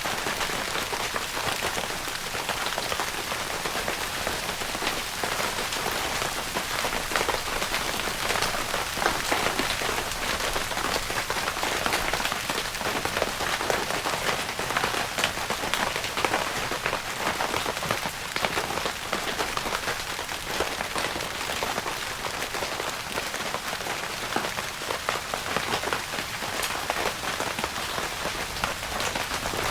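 Rain pattering steadily on a tent's fabric roof, a dense continuous patter of many small drop hits.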